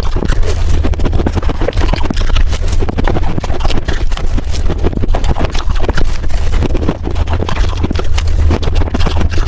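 Ice being crunched and chewed close to the microphone: a dense, continuous run of sharp, irregular crunches over a low rumble.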